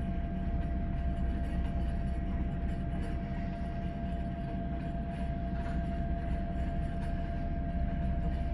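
Drilling rig running continuously: a steady low rumble with a constant hum held at one pitch above it.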